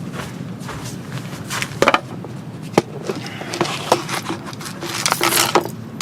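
A series of sharp knocks, clicks and short scrapes from camping gear being handled, the busiest stretch in the second half, over a steady hiss of soft rain.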